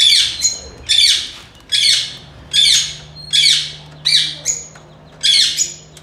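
A caged bird squawking over and over, a short, loud, high call that falls in pitch, repeated about every 0.8 seconds, eight times.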